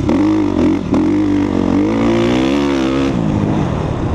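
2014 Suzuki RM-Z250's single-cylinder four-stroke engine being ridden hard, its revs rising and falling several times with a brief dip a little under a second in and a drop near the end as the throttle is worked.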